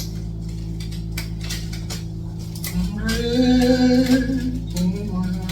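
Worship song playing, a singer holding a long note over a steady low drone, with a second note starting near the end. Scattered light clinks of kitchen utensils.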